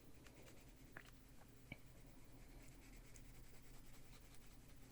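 Faint scratching of a Prismacolor colored pencil stroking on paper, with a couple of light ticks.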